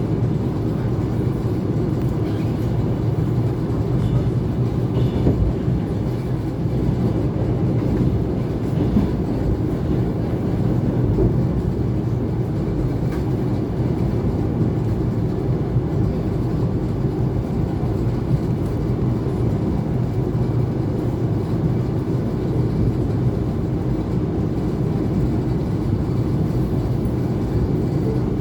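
ЭТ2 (ET2) electric multiple unit running between stations: a steady rumble of wheels on rails, with a faint steady hum and light scattered clicks.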